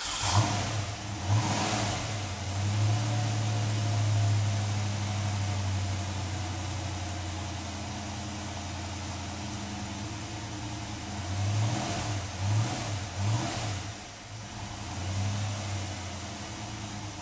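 1986 Ford Mustang GT's 302 HO (5.0 L) V8 running through its stock exhaust, idling with throttle blips: a rev about a second in, a quick run of three or four blips around twelve seconds in, and another rev near the end.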